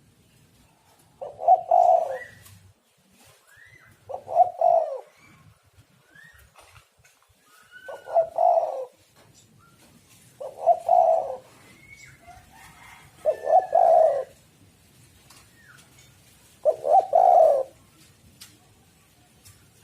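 Spotted dove (tekukur) cooing, six phrases of about a second each, spaced about three seconds apart. Faint short rising chirps from other small birds come between the coos.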